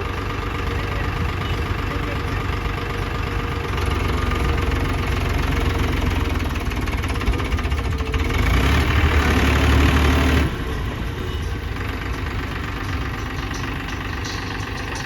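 Heavy diesel engine running steadily, revved harder for about two seconds partway through before dropping back.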